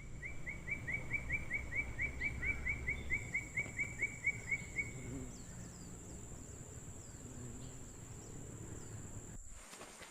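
Forest bird calling a quick series of repeated chirping notes, about four a second, for about five seconds, over a steady high-pitched insect drone and a low rumble. Fainter short falling chirps follow, and the low rumble drops away abruptly near the end.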